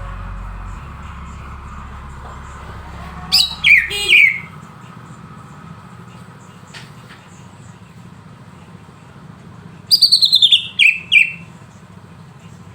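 Cucak ijo (green leafbird) singing in full song: two loud bursts of quick, falling whistled notes, one about three seconds in and a longer run of rapid notes about ten seconds in.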